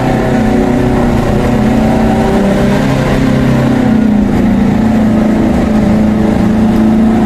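Car engine running steadily while driving slowly, heard from inside the cabin as a loud drone that rises and falls slightly in pitch.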